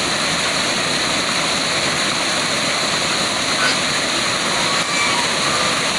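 Waterfall: a steady, unbroken rush of falling water. A few faint short chirps sound over it in the second half.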